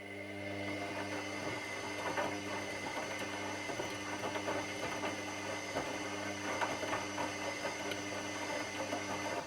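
Washing machine running for about nine seconds: a steady motor hum with a crackling churn over it. It cuts off near the end.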